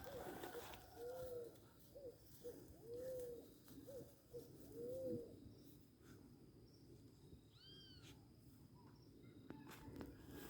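Faint, low, hoot-like animal calls: a series of short notes that rise and fall, some longer and some clipped, through the first five seconds, then a single higher call about eight seconds in.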